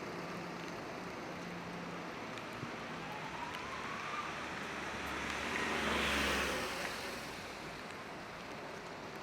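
A car passes on a wet street: tyre hiss and engine rumble build to a peak a little past the middle, then fade, over a steady hiss of rain.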